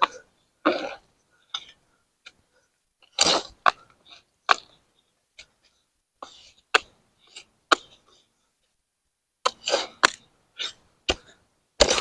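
A garden tool breaking up and loosening clay soil: a string of short scrapes and sharp knocks, about a dozen, with quiet gaps between them.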